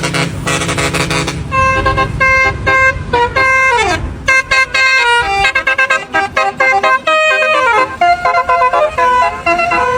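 Truck's musical multi-tone air horn playing a tune of short toots, with two notes sliding down in pitch. Over the first second and a half a lower engine rumble sits under the horn.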